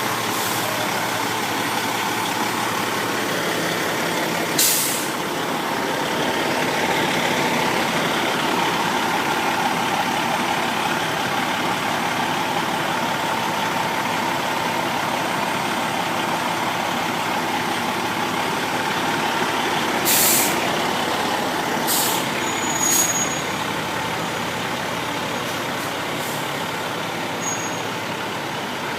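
Fire truck's diesel engine running steadily, with short sharp hisses from its air brakes about five seconds in and three times more around twenty seconds in.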